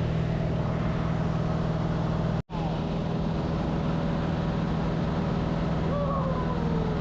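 Aircraft engine droning steadily, as heard inside the cabin of a skydiving plane. It cuts out completely for a split second about two and a half seconds in.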